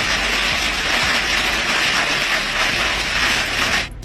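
Hail and heavy rain pelting down in a severe thunderstorm, a dense, steady noise that cuts off abruptly near the end.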